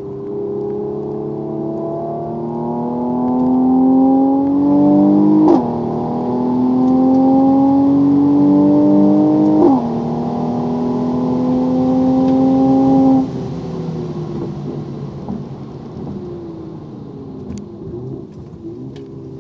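Mercedes-AMG C43's twin-turbo V6 at full throttle, heard from inside the car. Its note climbs steadily, drops sharply twice with quick upshifts about five and ten seconds in, and climbs again after each. About thirteen seconds in the throttle lifts and the engine falls away to a lower, quieter note as the car brakes.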